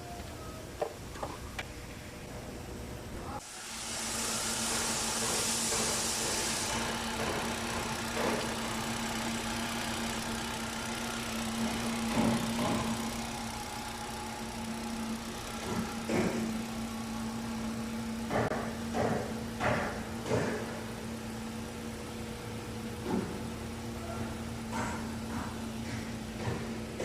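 A car engine starts about three and a half seconds in and runs with a steady hum. A hiss lasts a few seconds after the start, and scattered clicks and knocks come through the second half.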